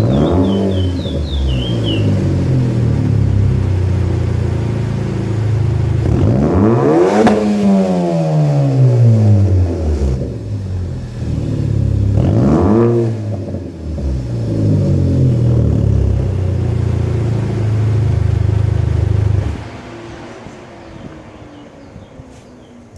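2014 Ford Fusion 2.0 EcoBoost turbo four-cylinder running through a muffler-delete exhaust: idling, then revved twice, one long rev that rises and falls and a shorter blip, then back to idle. The engine sound drops away sharply near the end.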